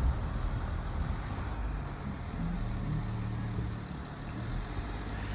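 Truck driving along, a steady low engine rumble with road noise.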